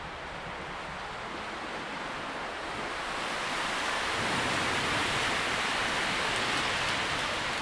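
Wind rustling through tree leaves, a steady hiss that swells into a stronger gust a few seconds in and eases slightly near the end.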